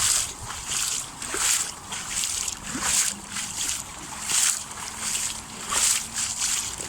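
Someone wading through floodwater in waders, a slosh and splash of water with each stride, about one every second and a half.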